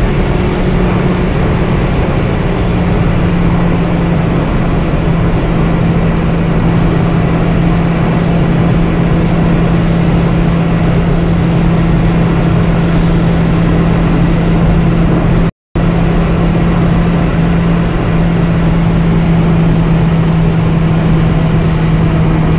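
Honda Civic VTi's 1.6-litre VTEC four-cylinder at high revs in top gear, heard inside the cabin over heavy wind and road noise. Its drone holds a nearly steady pitch as the car pulls slowly on at high speed, and the sound cuts out for a moment about 15 seconds in.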